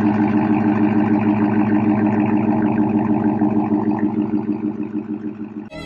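Chrysler 300's Hemi V8 idling steadily through a Carven R muffler exhaust with the resonator deleted, a deep, even, pulsing rumble at constant pitch. It cuts off suddenly just before the end, where string music comes in.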